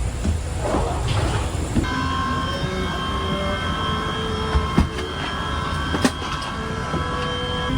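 Electric rail car running with a steady low rumble. About two seconds in, a whine of several steady tones sets in and steps in pitch, with a couple of sharp clicks near the end.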